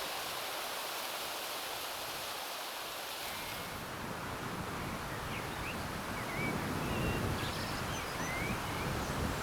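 Outdoor countryside ambience: a steady hiss for the first three and a half seconds, then small birds chirping in short notes over a low rustling rumble that grows louder about six seconds in.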